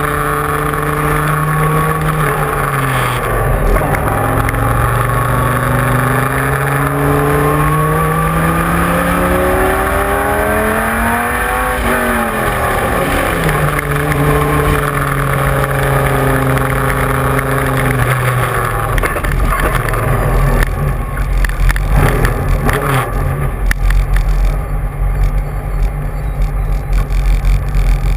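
Dodge Viper GT3's V10 racing engine under hard use. Its pitch dips about three seconds in, climbs steadily through a long pull to a peak about twelve seconds in, drops quickly as it comes off the throttle, and then holds steady for a few seconds. In the last third it gives way to a rougher, irregular low rumble and noise.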